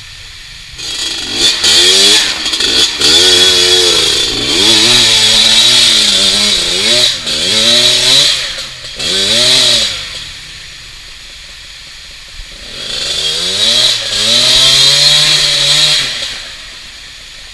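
Small two-stroke dirt-bike engine revved loudly in repeated bursts, its pitch climbing and falling as it labours under load. It settles to a low idle for a few seconds past the middle, then revs up again and drops back near the end.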